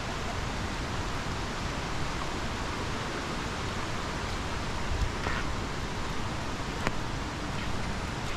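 Steady rushing of falling water, an even hiss, with a few short clicks or knocks about five and seven seconds in.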